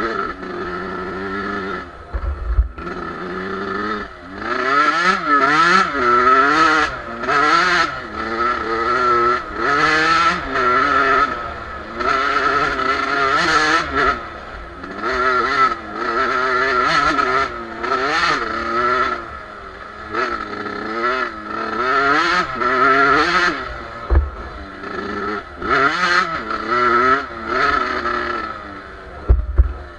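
Two-stroke Suzuki RM motocross bike engine being ridden hard off-road, revving up and falling back again and again as the throttle opens and shuts every second or two.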